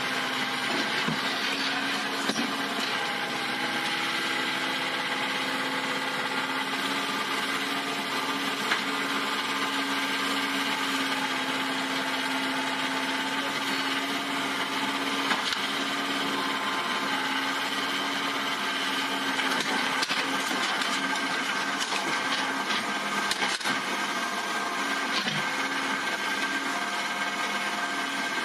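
A steady mechanical whirring with several constant tones running through it, with a few faint clicks.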